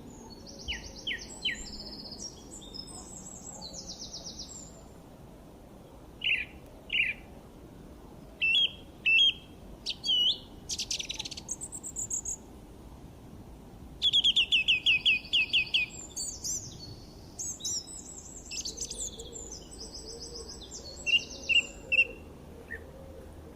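Songbirds chirping and singing: a string of varied short calls, whistles and trills, with a fast run of repeated notes about halfway through, over a faint steady background hiss.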